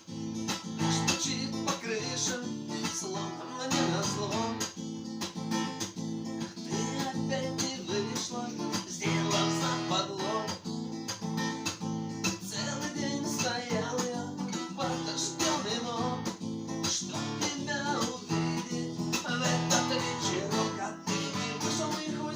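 Acoustic guitar strummed in chords, with no voice.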